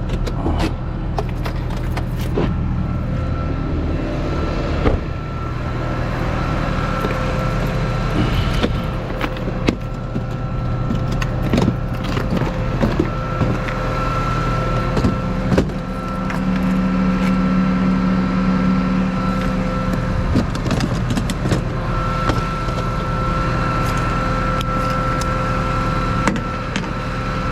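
Tow truck engine running with a steady low hum and a thin steady whine, with scattered metallic clinks and knocks.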